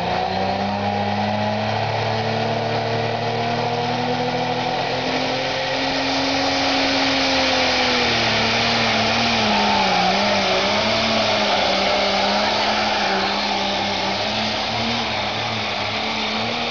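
Turbocharged pulling tractor's engine running flat out under load as it drags the weight sled. The high engine note holds steady, dips about eight seconds in, then wavers in pitch for a couple of seconds.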